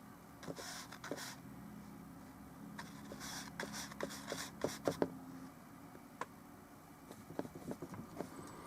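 Oil paintbrush working on a small painting panel: brief scratchy strokes and scattered light taps and clicks, loudest about halfway through, over a steady low hum.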